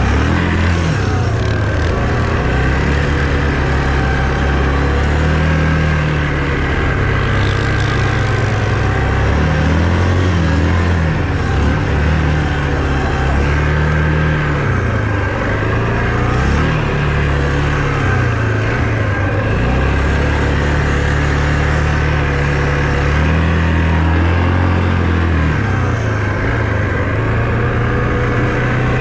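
Engine of a four-wheel-drive vehicle running steadily. Its pitch rises and falls every few seconds as the throttle is opened and eased off.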